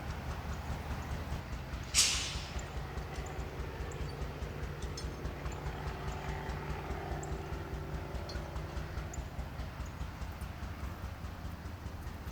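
Diesel locomotive running with a steady, rhythmic low throb. About two seconds in, a short, sharp burst of released air hisses and fades within about half a second.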